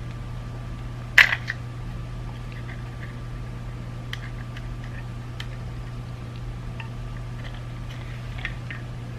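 Small sharp plastic clicks and taps as the parts of a BMW iDrive controller are handled and fitted during re-assembly. The loudest click comes about a second in, followed quickly by two lighter ones, and faint ticks are scattered after it. A steady low hum runs underneath.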